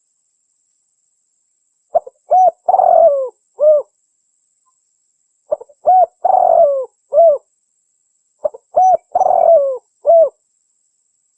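Spotted dove cooing in three identical phrases about three seconds apart, each a couple of short notes, a longer rough coo falling in pitch, then one last note. It is a looped lure recording used to call wild spotted doves in for trapping.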